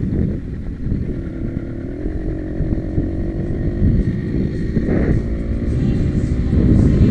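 Two-stroke engine of a motorized mountain bike running while riding, a dense low drone that slowly grows louder.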